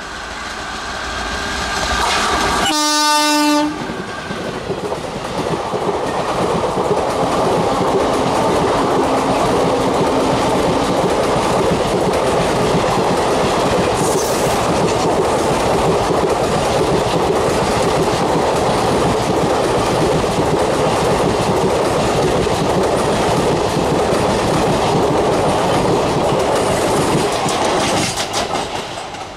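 WAP-4 electric locomotive sounding one short horn blast about three seconds in as it approaches at speed, followed by the long steady rush and clatter of its passenger coaches' wheels running past over the track, falling away near the end.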